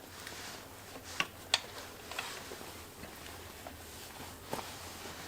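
A few sharp plastic clicks and small handling noises as a stuck headlight wiring connector is worked by hand, its tiny locking tab being pushed in; the two loudest clicks come close together about a second and a half in.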